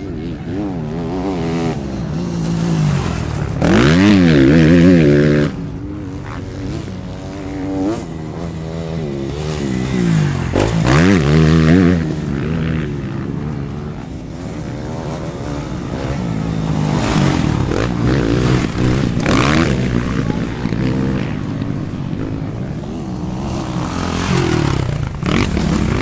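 Motocross bikes' engines revving up and down through gear changes as they race past, loudest as bikes pass about 4 and 11 seconds in.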